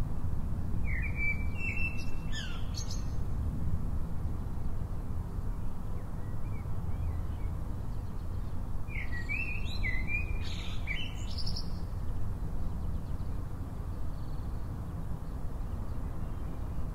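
A songbird singing two short phrases of quick chirping notes, about a second in and again about nine seconds in, over a steady low rumble of background noise.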